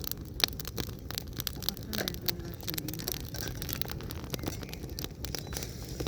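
Irregular crackling and rustling: many short, uneven clicks, with faint voices in the background.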